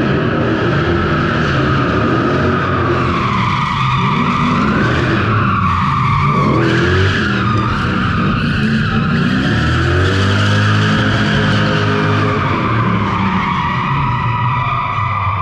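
Straight-piped Toyota 3UZ V8 revving hard while the tyres squeal through a sustained drift. The engine pitch drops and climbs again as the throttle is worked.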